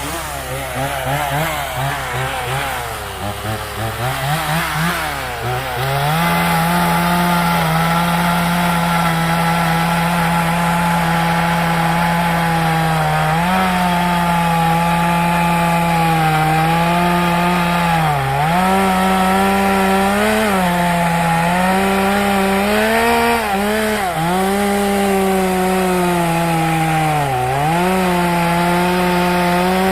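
Two-stroke chainsaw cutting firewood: the engine revs unevenly for about the first six seconds, then holds a steady high pitch, sagging briefly several times as the chain bites into the wood.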